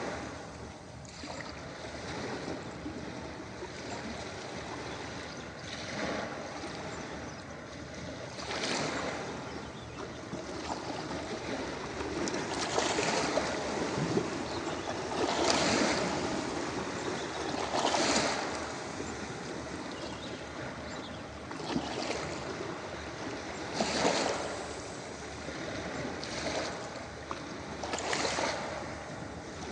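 Ocean surf washing onto a beach: a steady hiss of water with waves breaking in swells every two to four seconds, the biggest in the middle of the stretch.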